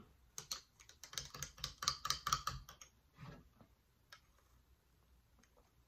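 Close-miked chewing: a quick run of wet mouth clicks and smacks for about three seconds, then only a few faint ticks.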